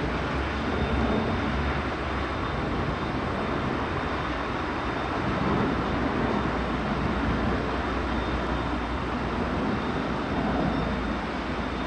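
Steady vehicle noise: an even, continuous rumble and hiss with no distinct events.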